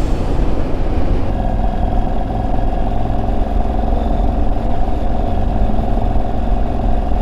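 Motorcycle running at a steady cruising speed, heavy wind rush buffeting the helmet microphone; a steady engine hum comes up about a second and a half in and holds.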